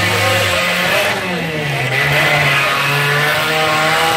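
Demolition derby compact cars' engines running and revving, the pitch dropping about a second in and then shifting up and down as the cars manoeuvre.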